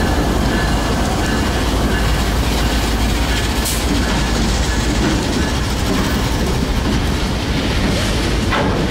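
CSX freight train passing close by, loud and steady. The trailing diesel locomotive goes by early on, and then the freight cars' wheels rumble and clack along the rails.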